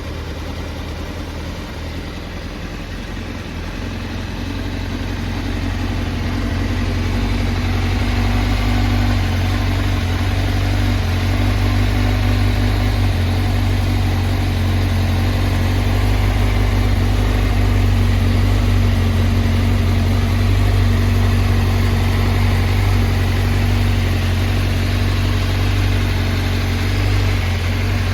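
Honda CBR1000RR-R inline four-cylinder engine idling steadily, settled after a blip of the throttle. It grows louder over the first several seconds and then holds even.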